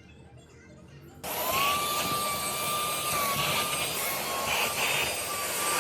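Deerma vacuum cleaner switched on about a second in, its motor running steadily with a high whine over a rush of air.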